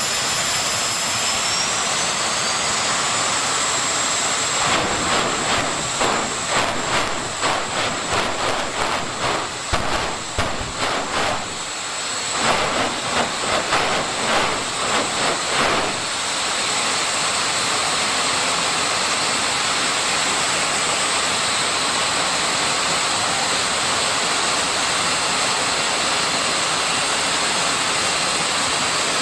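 Jet engine of a jet-powered drag racing car running with a steady rush and a high whine. For about ten seconds in the middle the sound pulses rhythmically, about twice a second, before settling back to a steady roar.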